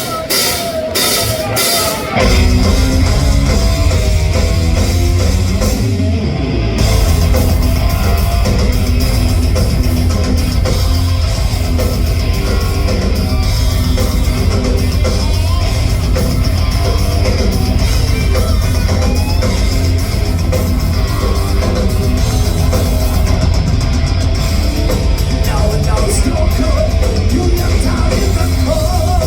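Live heavy rock band of electric guitars, bass and drums playing a loud, driving song. It opens with a few sharp hits, and the full band comes in about two seconds in.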